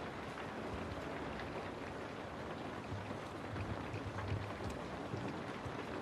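Steady rainfall, a continuous hiss dotted with faint drop ticks, with a low rumble swelling briefly around the middle.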